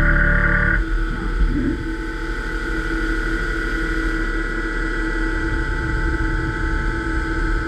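A CNC milling machine working steel: a steady high whine with several held tones over a low rumble. A denser, louder cutting sound stops abruptly about a second in, and the whine and rumble carry on.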